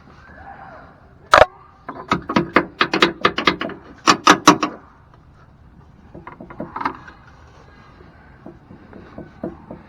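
A socket wrench worked on a step-rail mounting bolt under a pickup truck: one sharp metal clack, then a quick run of clicks and knocks, a few more a little later and another run near the end.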